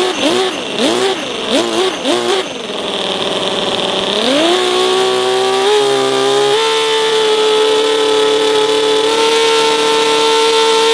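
Miniature model engine being revved: four quick throttle blips in the first couple of seconds, a short lower stretch, then about four seconds in the revs climb and hold steady at a high-pitched whine.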